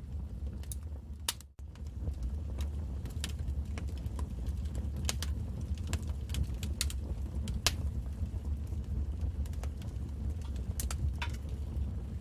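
Wood fire crackling: a steady low rumble of burning with irregular sharp pops and snaps, one louder pop a little past halfway. The sound cuts out briefly about a second and a half in.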